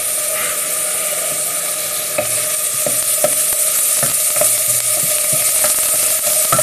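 Food sizzling as it fries in a pan on the hob, with a utensil stirring and tapping against the pan, the taps coming more often from about two seconds in.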